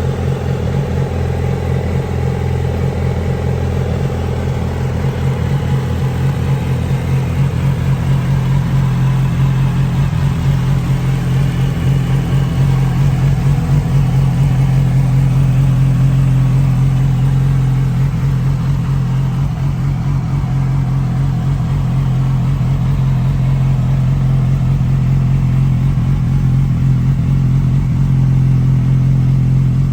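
2007 Yamaha YZF-R6's inline-four engine idling steadily through a GYTR exhaust system with catalytic converter.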